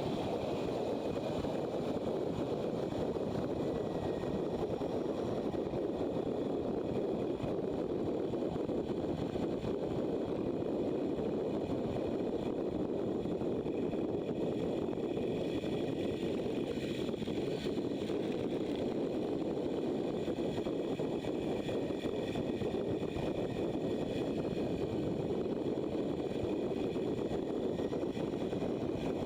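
Motorcycle riding at a steady speed: engine and wind rush on the camera microphone, an even noise that holds unchanged throughout.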